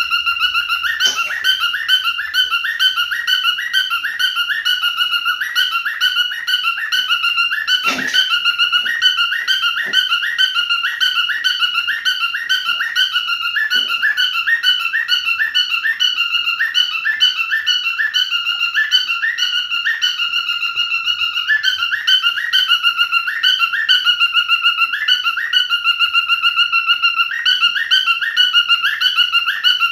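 Cockatiel singing: a continuous whistled warble of quick, repeating trilled phrases, with a few soft knocks about a second in and again around the middle.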